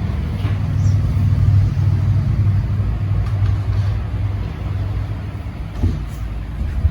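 A steady low rumble, loudest about a second to two seconds in and easing off toward the end.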